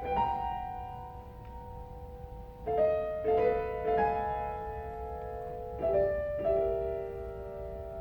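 Solo piano: notes and chords struck a few at a time and left to ring and fade, slow and unhurried, with a quieter ringing stretch before a new group of notes about a third of the way in.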